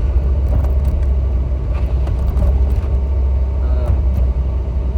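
Steady low rumble of a moving car, heard from inside the cabin: engine and road noise while driving.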